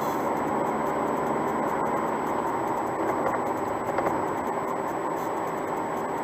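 Steady road and tyre noise with the engine running, heard from inside the cabin of a car travelling at speed.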